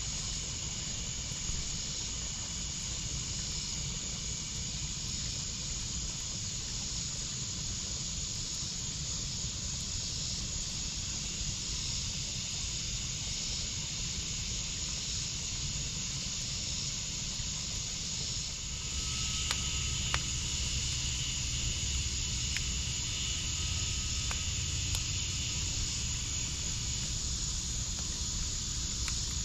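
Wood fire in a backyard fire pit burning with a steady hiss and a few sharp crackles and pops, over steady insect chirping. The low rumble of the fire gets a little louder about two-thirds of the way through.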